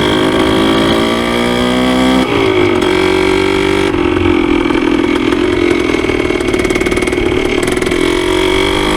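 1973 Yamaha CT3's single-cylinder two-stroke engine pulling under way: the pitch climbs for about two seconds, drops suddenly as with a gear change, then runs fairly steady before dipping and picking up again near the end. The engine is freshly rebuilt and is being run hot for its first heat cycles.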